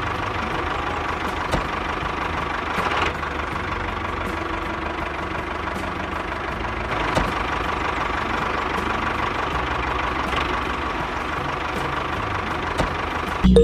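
Small electric motor of a DIY model tractor running steadily, with a faint constant whine and rattling.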